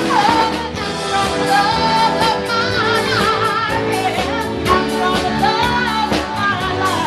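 A live band playing, with a lead vocalist singing a held, wavering melody over the instruments and a steady drum beat.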